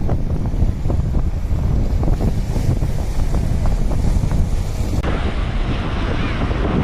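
Strong wind buffeting the microphone over a steady rush of water from the dam's released flow. About five seconds in the sound switches abruptly to a brighter, hissier rush of water.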